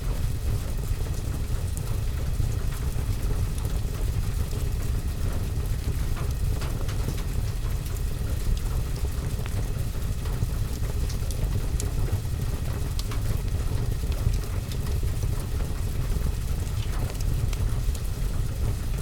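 Steady rain on a window and roof with a low, even rumble, mixed with a fireplace fire, with scattered faint ticks of drops or crackles throughout.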